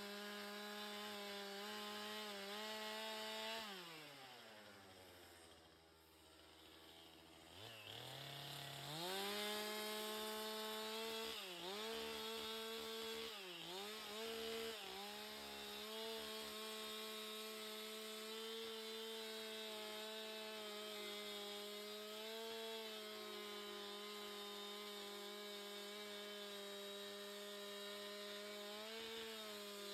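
Two-stroke chainsaw running at high revs. About four seconds in it drops to idle, then it is revved back up and held there, with its pitch dipping briefly twice soon after.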